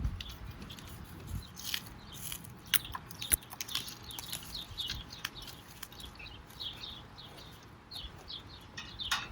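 Small birds chirping over and over in short, quick downward chirps, with a few sharp clicks or knocks a couple of seconds in.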